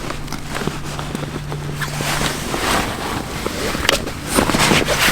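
A layout blind's fabric cover and frame being handled and forced into shape, rustling with a few sharp knocks, loudest near the end. A steady low hum runs under the first half.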